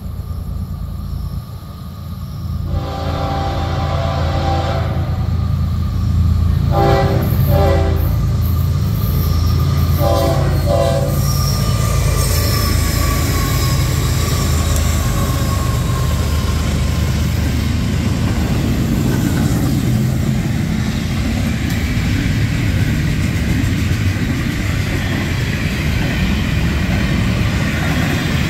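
A freight train led by a GE ES44 diesel-electric locomotive approaches with its engine rumbling and sounds its horn several times in the first eleven seconds. The locomotive then passes close by, and the intermodal cars roll past with steady wheel-on-rail noise and some clickety-clack.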